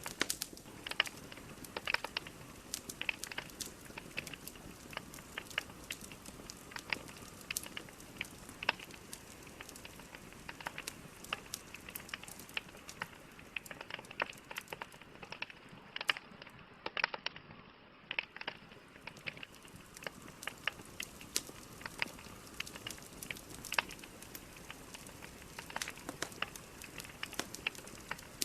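Burning logs in a fireplace crackling: irregular sharp pops and snaps over a steady soft hiss of the fire.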